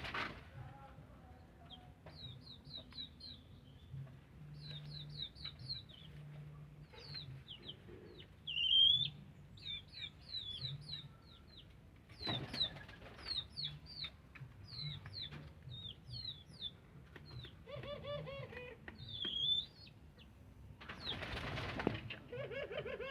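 A male dove flapping its wings in short bursts, three times, over a steady background of small birds chirping in quick high falling notes.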